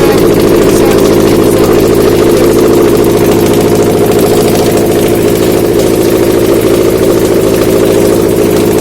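Subaru FB20 2.0-litre flat-four engine idling steadily while being run on a test stand to check a used engine.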